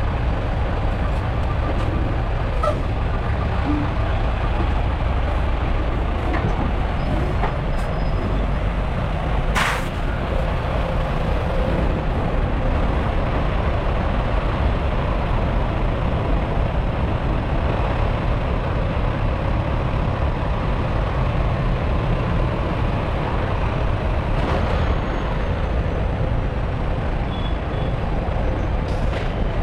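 Heavy truck engine running steadily with a low rumble, and one sharp click about ten seconds in.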